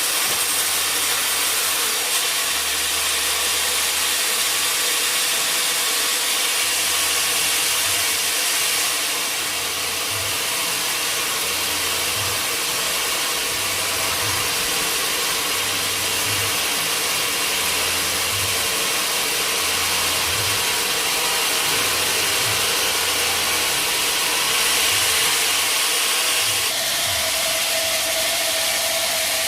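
Sawmill machinery running steadily, a continuous mechanical noise, changing slightly near the end.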